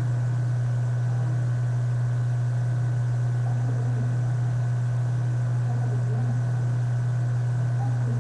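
A steady low hum with a faint hiss under it, unchanging throughout.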